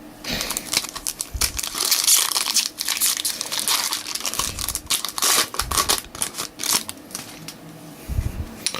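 Trading card pack wrapper being torn open and crinkled by hand, a dense run of crackling that thins out about six seconds in.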